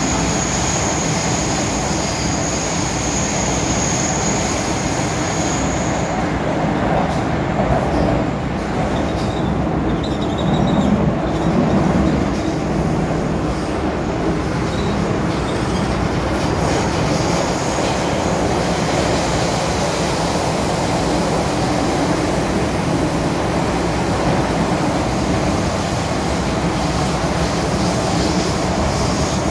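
MTR M-Train electric multiple unit running along the track with a steady rumble and wheel noise. A thin, high squeal is heard for about the first six seconds, then stops.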